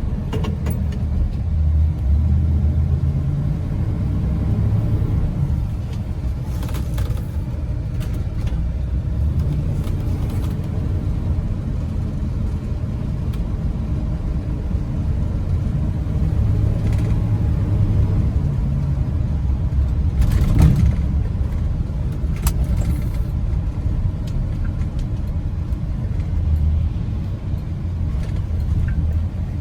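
A 1987 Chevrolet Silverado's 5.7-litre (350) V8 with dual exhaust running as the pickup drives, a steady low rumble with a few brief clatters.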